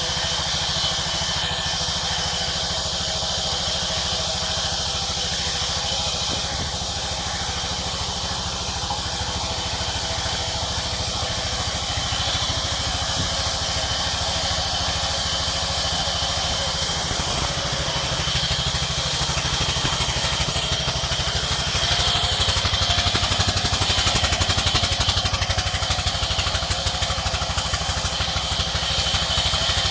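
Village sawmill machinery running steadily under engine power, a little louder from about twenty seconds in.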